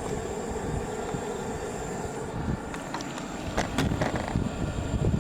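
Wind rumbling on the camera microphone, with a few light handling knocks as the camera is turned.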